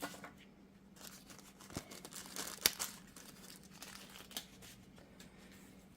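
Faint scattered clicks and rustling of tools and parts being handled during U-joint work, with one sharper metallic click near the middle.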